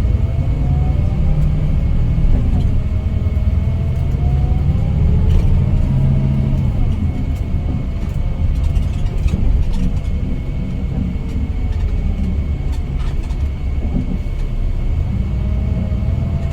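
Scania K410IB coach under way: a steady low rumble of engine and road, with a whine that climbs in pitch over the first several seconds, falls away, and climbs again near the end, as road speed changes. A faint steady high tone sits above it.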